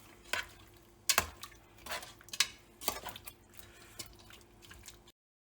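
A metal spoon clinking and scraping against a cooking pan while stirring yogurt into a wet chicken curry mixture, in separate knocks with the loudest a little after a second in. The sound cuts out abruptly near the end.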